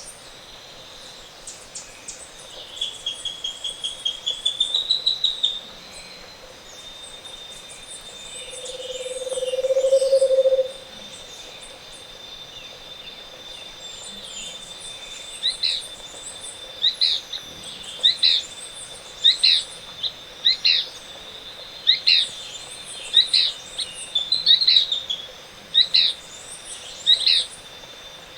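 Bird chorus in tropical montane forest. A Scaled Antpitta gives a low, hollow trill that swells in loudness over about two seconds near the middle. Around it are other birds: a fast high trill that rises at its end a few seconds in, and, from about halfway, a sharp falling call repeated about once a second, all over a thin, steady high whine.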